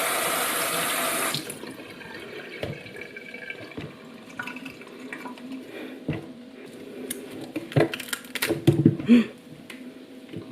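Kitchen tap running hard into the sink for about a second and a half, then quieter water and scattered clicks of handling, with a few louder knocks near the end.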